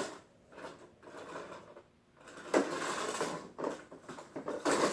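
Plastic toy train track pieces clattering and rattling as they are handled and fitted together, in several short irregular bursts.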